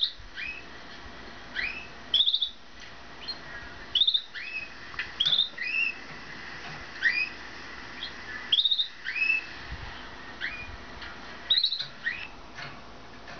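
Canaries chirping back and forth: short rising chirps about once a second, alternating between a higher and a lower pitch.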